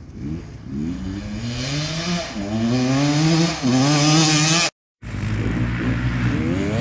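Enduro motorcycle engine revving hard, its pitch climbing in surges with two brief dips. It cuts out abruptly a little past two-thirds in, then is running again, rising in pitch near the end.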